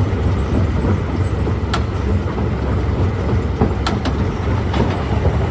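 Stone crusher running with a steady heavy rumble, with a few sharp knocks of rock, clustered a little past the middle.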